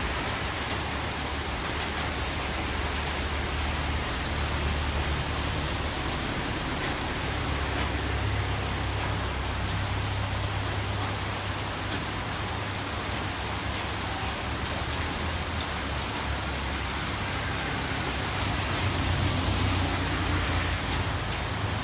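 Steady rain falling, an even hiss across the whole range with a low rumble underneath.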